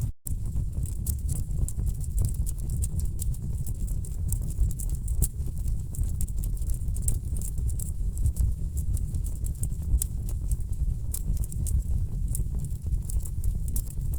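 Wood fire burning in a fireplace: a steady low rumble of flame with frequent sharp crackles and pops from the burning logs. The sound cuts out for an instant just after the start.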